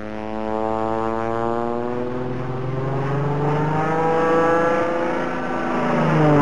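An engine passing close by: a steady drone that slowly grows louder, then drops sharply in pitch as it goes past near the end. It is a sound effect for a low fly-by "buzz".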